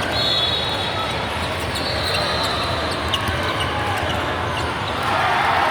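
Basketball game in a gym: a ball bouncing on the court amid a steady hum of crowd and hall noise, with two high-pitched squeaks or tones, each about a second and a half long, in the first half.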